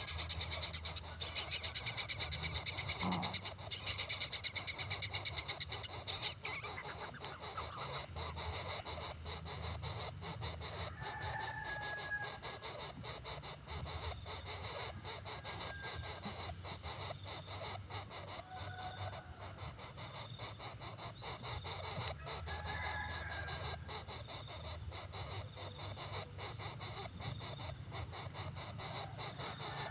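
Natural outdoor ambience of insects trilling steadily, with a loud, fast-pulsing insect buzz for the first six seconds. A few short bird calls sound about a third of the way in, again past the middle and near the end.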